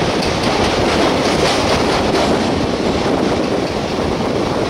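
Passenger train coaches running through a rail tunnel: a steady, echoing rumble of steel wheels on the rails, with clicking over the rail joints in the first couple of seconds.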